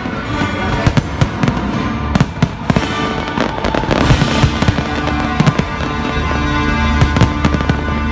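Aerial fireworks shells bursting in quick succession, many sharp bangs and crackles, building near the end into a dense barrage with a continuous low rumble. Music plays underneath.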